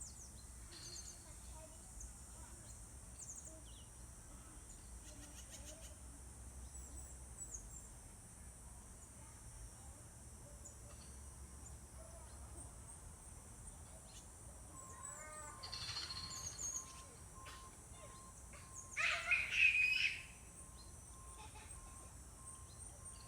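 Wild birds chirping faintly and intermittently, with a louder call about two-thirds of the way in and the loudest, a dense call lasting about a second, near the end.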